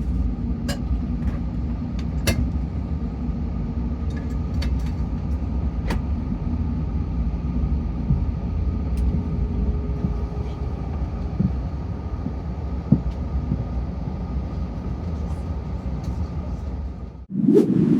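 Airbus A380 passenger cabin noise after landing: a steady low rumble with a faint hum and a few scattered sharp clicks. Near the end a short louder sound rises, then it cuts off suddenly.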